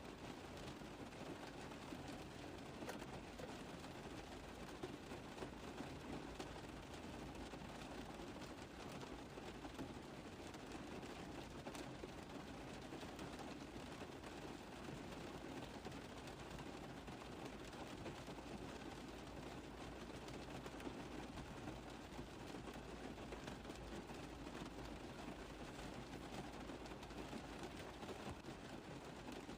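Rain falling on a car roof: a steady, even hiss with a dense patter of small drop taps.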